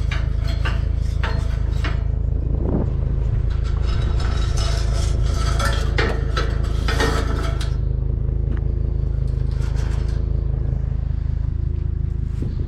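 Pieces of scrap metal clanking, clinking and scraping as they are handled and loaded into a pickup truck bed, busiest over the first eight seconds, then a few scattered knocks. A steady low rumble runs underneath.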